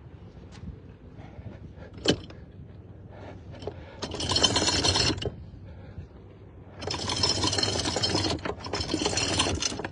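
Anchor chain rattling out over the bow of a sailing yacht in three bursts of a second or so each, after a single sharp click: more scope being let out while the anchor is set.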